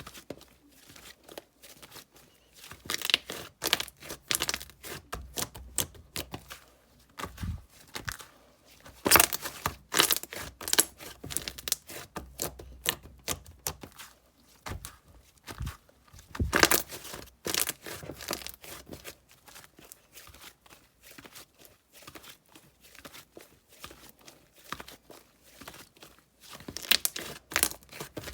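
Slime being squished and stretched by hand, making dense, irregular clicking and popping, with louder flurries of pops now and then.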